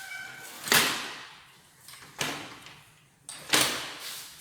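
A sliding window being handled in its frame: several sharp scraping knocks, the first about a second in, another after two seconds and a pair near the end.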